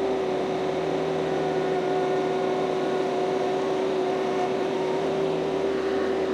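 Kioti CS2520 subcompact tractor's diesel engine running steadily, driving a PTO stump grinder: a constant hum with one steady tone.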